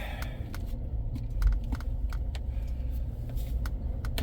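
Truck running, heard from inside the cab: a steady low rumble with scattered light clicks and rattles.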